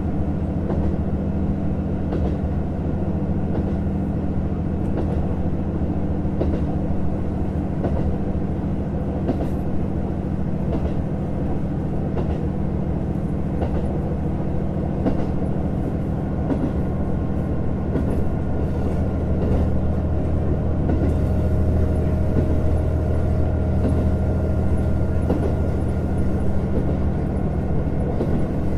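Onboard running sound of a JR Hokkaido KiHa 150 diesel railcar: a steady low engine drone mixed with wheel-on-rail noise and scattered faint clicks. A little past two-thirds of the way through it gets slightly louder, with a faint steady whine above the drone.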